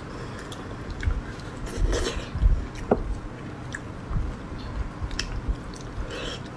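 Beef bone marrow and fatty meat being chewed and bitten close to the microphone: irregular mouth sounds with a few sharp clicks.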